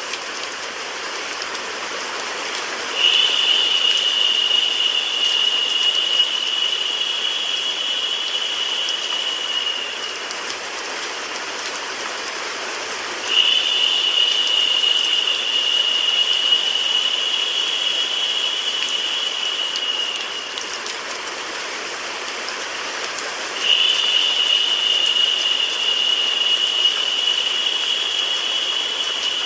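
Steady rain and white noise. A louder, high-pitched hiss comes in three times, about ten seconds apart, each lasting about seven seconds, as in a repeating loop.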